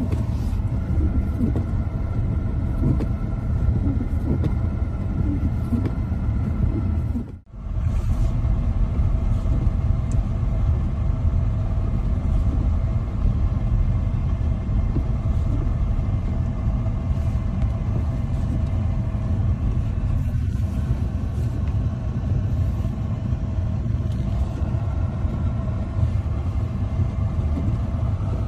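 Steady low rumble of a car driving, engine and road noise, with a brief dropout about seven and a half seconds in.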